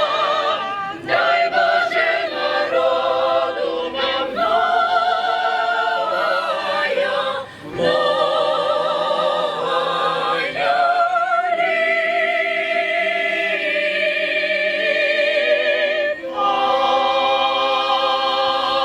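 A choir singing in long held notes with vibrato, with brief breaths between phrases about seven and sixteen seconds in.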